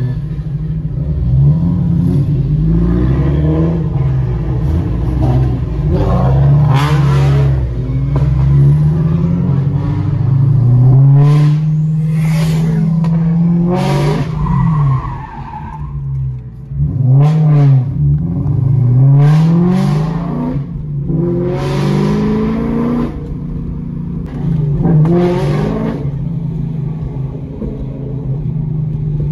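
Car engine heard from inside the cabin, revving up and falling back again and again as the car is driven hard along a winding road, with several short, loud rushes of noise mixed in.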